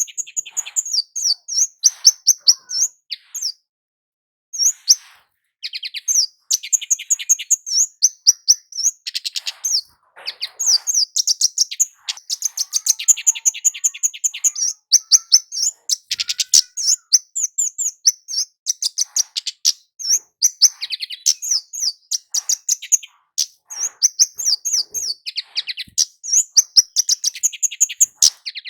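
Kemade jawa, a flowerpecker, calling in fast runs of sharp, high, ticking chirps, several a second, broken by short gaps and one pause of about a second near the start.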